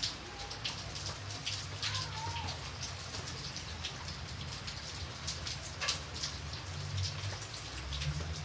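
Rain falling, with many separate raindrops tapping on a surface over a steady patter and a low rumble underneath.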